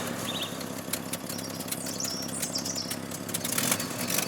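Truck engine running steadily at idle, with scattered clicks and a few short high chirps over it.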